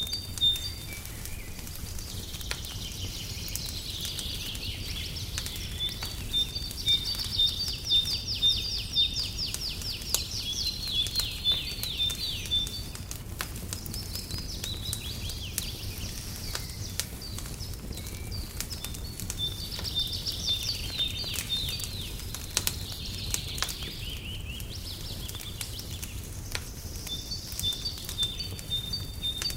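Birds singing in repeated high chirps and fast trilled runs that come and go, over a crackling fire with scattered small pops and a steady low rumble.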